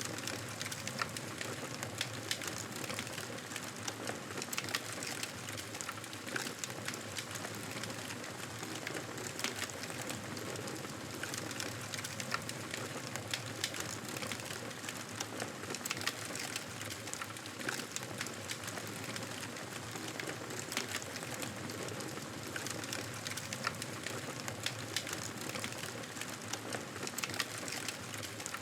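Fireplace fire crackling: frequent small, irregular pops and snaps over a steady hiss.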